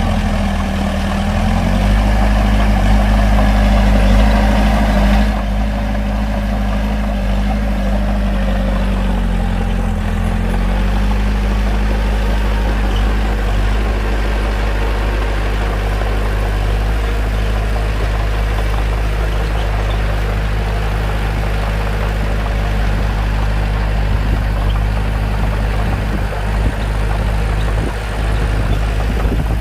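Bulldozer diesel engine running steadily while the dozer works. Its note dips briefly and recovers about a second in and again about ten seconds in.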